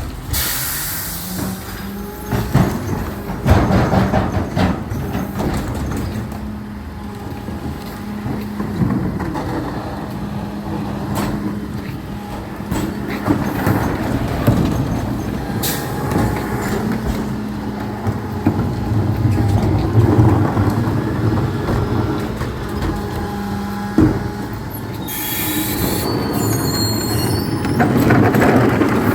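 Recycling truck at work: its engine and hydraulics run with a steady hum, broken by clanks and knocks. Near the end come several high, wavering squeals.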